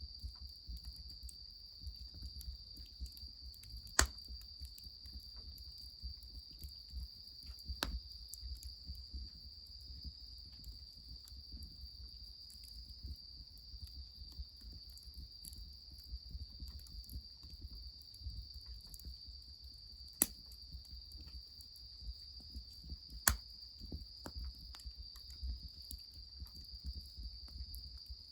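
Steady high-pitched chirring of crickets, over the faint ticking crackle of a wood fire, with four sharp cracks standing out over the insects.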